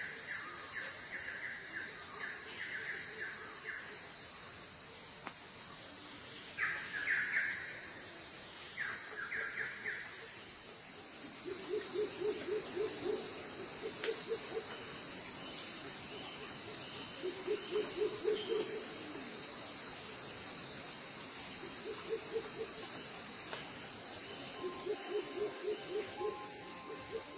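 Steady high-pitched insect chorus with bird calls. Quick series of higher notes sound in the first ten seconds, then four bouts of lower, rapidly pulsed calls.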